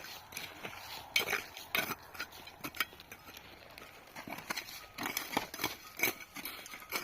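Irregular knocks, clinks and short scrapes of hand tools working cement mortar.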